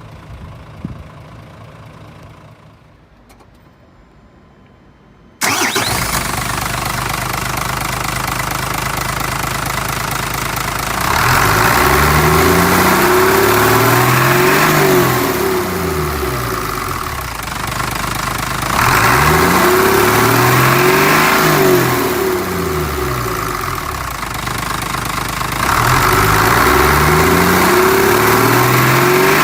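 Mitsubishi Fuso 6M61 inline-six diesel truck engine comes in abruptly about five seconds in and runs steadily. It is then revved three times, its pitch rising and falling back each time over a few seconds.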